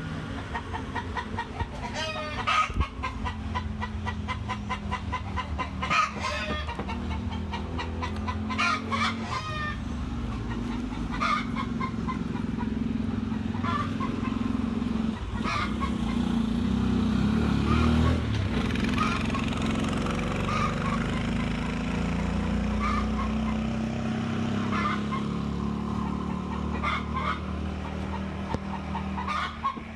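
Chickens clucking, with short calls scattered throughout, over a steady low motor drone that grows louder around the middle and then eases off.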